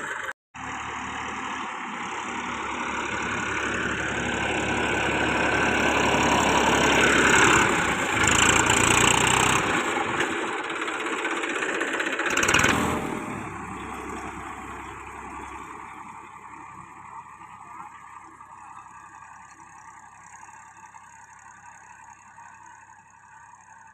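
Tractor engine running, growing louder over the first several seconds and then fading away over the last ten.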